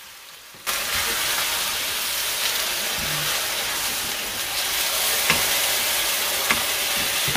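Japchae glass noodles and pork sizzling in a hot wok, the steady loud sizzle starting suddenly about a second in as water is poured into the pan to cut the saltiness. A few light clicks of the wooden spoon sound during the stirring.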